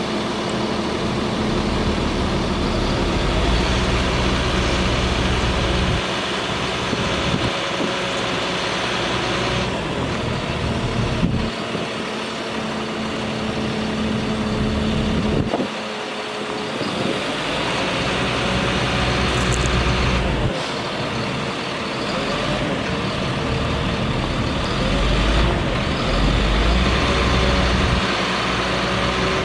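Bucket truck's engine running steadily. Its low rumble grows stronger and weaker in stretches every few seconds.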